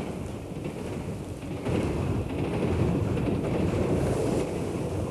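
Steady low rumble of a train in motion, getting louder about a second and a half in.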